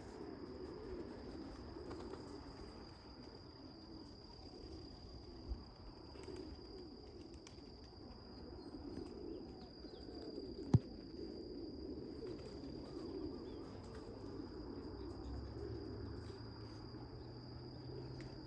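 Racing pigeons cooing steadily over a continuous high-pitched whine, with a single sharp click about eleven seconds in.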